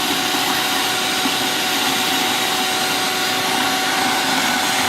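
Wet vacuum running steadily with a high motor whine, its hose sucking up soapy cleaning solution mixed with air to flush the hose out.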